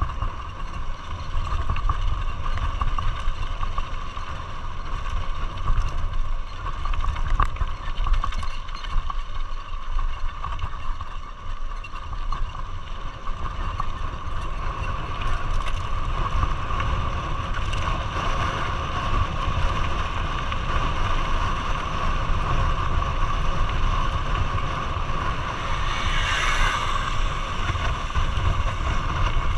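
A vehicle engine running at a steady pitch, over a constant low rumble.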